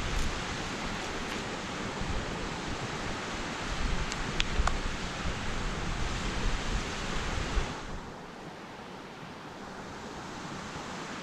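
Steady rushing outdoor noise with wind buffeting the microphone in low rumbling gusts; the buffeting drops away about eight seconds in, leaving a quieter even rush.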